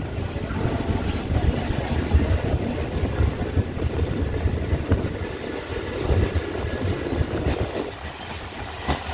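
Passing express train giving a steady, uneven low rumble, with no horn.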